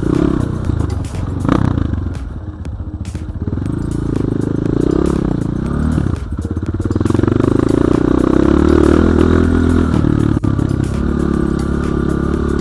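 BSE J1 enduro motorcycle engine running while ridden over rough ground, the revs dipping and climbing again about five to six seconds in, then held higher and steady. Short rattles and clicks from the bike come through early on.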